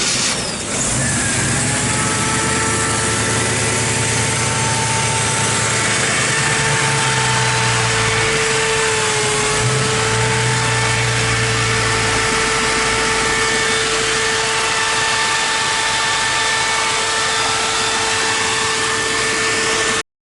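Fuel-injected 350 small-block Chevy V8 crate engine idling steadily just after starting, with a steady whine over the running.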